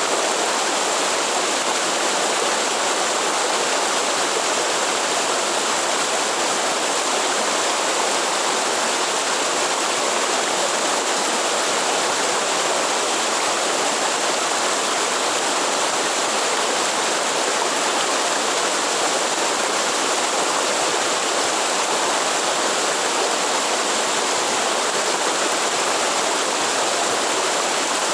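Steady rushing of falling water from a small forest waterfall, even and unbroken.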